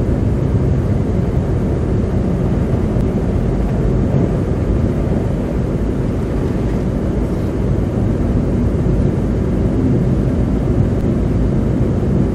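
Steady road noise inside a car driving on a slushy road: tyres and engine at cruising speed, a low, even drone with a faint hum.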